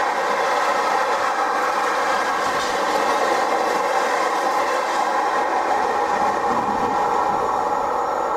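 Freight wagons rolling through at speed, a steady, loud rolling noise of wheels on rail as the last wagons of a long goods train pass close by.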